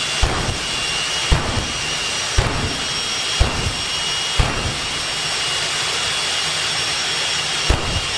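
Jet engine of a jet-powered drag car running steadily: a loud, even roar with a high whine. Short low thumps come about once a second, pause midway, and start again near the end.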